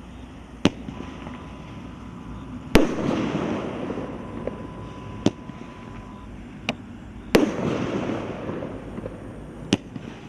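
500 g consumer firework cake firing shot after shot: six sharp bangs, irregularly spaced. The two loudest, about three and seven seconds in, are each followed by a couple of seconds of crackling.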